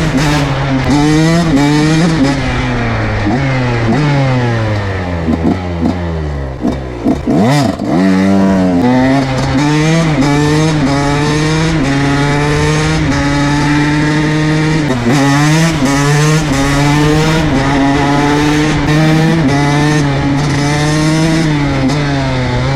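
KTM SX 125 two-stroke single-cylinder engine revving hard through the gears, its pitch climbing and dropping back at each upshift. About five seconds in the revs wind down steeply as the throttle closes, then climb again through more shifts.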